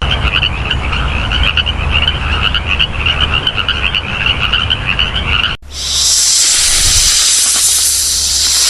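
Frogs croaking in a dense, rapid trilling chorus, which cuts off abruptly about five and a half seconds in and gives way to a steady, loud hiss.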